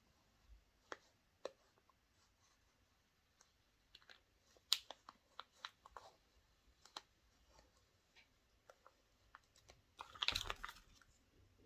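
Small plastic clicks and taps from handling a chocolate egg's toy capsule and toy pieces, scattered and irregular, with a short, louder burst of handling noise about ten seconds in.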